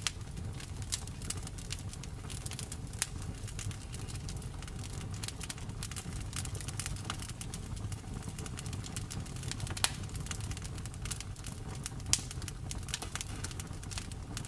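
Wood fire crackling: a steady low rumble of flames with frequent small snaps and pops, the two loudest pops about ten and twelve seconds in.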